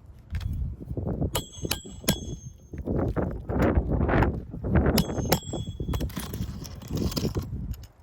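Sharp metal-on-metal clinks that ring briefly at a high pitch, three about a second in and two or three more about five seconds in, over loud, uneven low rumbling noise.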